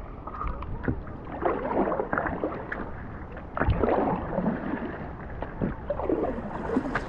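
Stand-up paddleboard paddling on calm seawater: the paddle blade dipping and pulling, with water swishing and sloshing every second or two over a low rumble.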